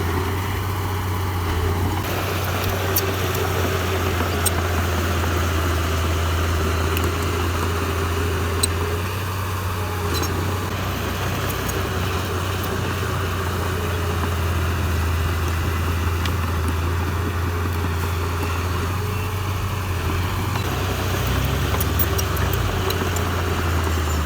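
Heavy-equipment diesel engine running steadily with a deep, even drone, with a few faint clicks now and then.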